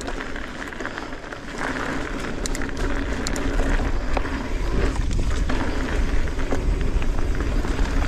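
Wind rushing over the microphone and a mountain bike's knobby tyres rolling fast over a dirt trail, with a few sharp clicks and rattles from the bike.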